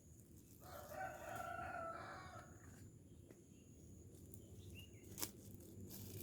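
A rooster crowing once, faint, for about two seconds near the start. A single sharp click a little after five seconds in.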